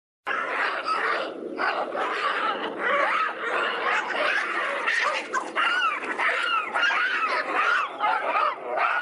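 A group of monkeys calling all at once: many overlapping high calls that rise and fall in pitch, cutting in abruptly just after the start.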